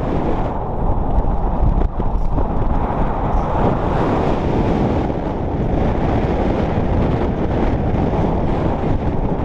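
Heavy wind buffeting the microphone: a loud, steady, low rumble of noise.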